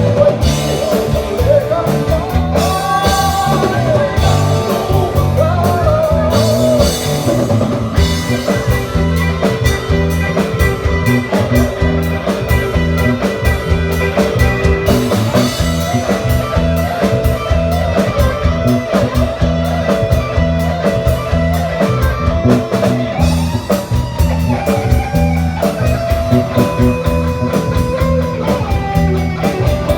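A band playing a rock song, led by guitar over a drum kit.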